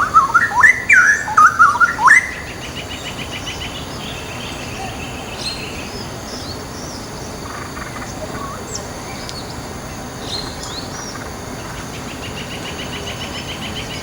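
Straw-headed bulbul singing a loud, bubbling warble of quick up-and-down notes for about two seconds. Fainter calls of other small birds follow, including a rapid high trill and short high chips.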